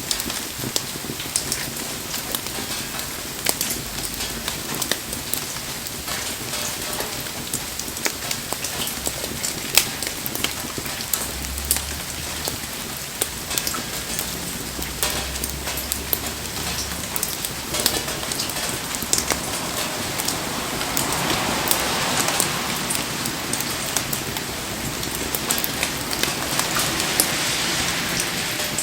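Steady rain pattering over a wood bonfire, with scattered sharp ticks and pops throughout. The hiss swells twice in the second half.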